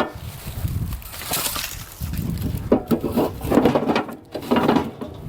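Split firewood pieces tossed one after another into an aluminum box lined with a bag, knocking and clattering in irregular bunches.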